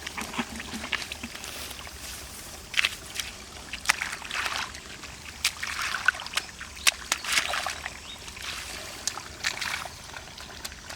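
Shallow water splashing and sloshing in irregular bursts, with several sharp splashes, as hands work through the water of a flooded rice field.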